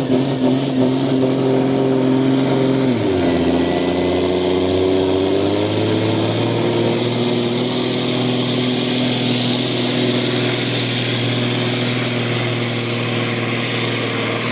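Turbocharged diesel farm tractor engine at full revs pulling a weight-transfer sled. About three seconds in the revs drop sharply as the load bites, then climb back slowly and hold steady under full load.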